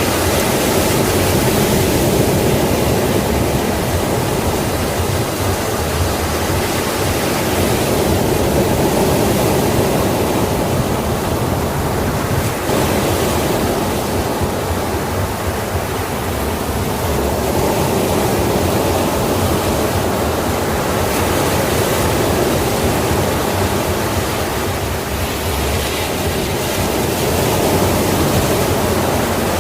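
Sea waves breaking and washing on the shore in a steady roar, swelling and easing every several seconds.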